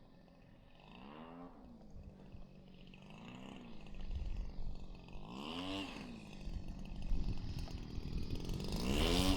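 Small two-stroke gas engine of an RC Piper Cub idling on approach, with four short throttle blips where its pitch rises and falls again. It gets louder toward the end, with low wind rumble.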